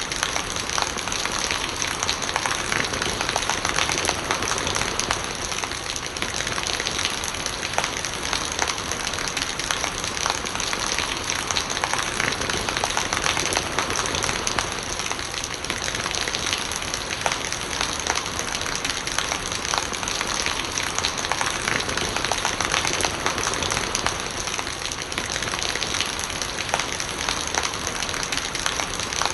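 Steady rain with gurgling rainwater: a dense patter of drops over an even hiss.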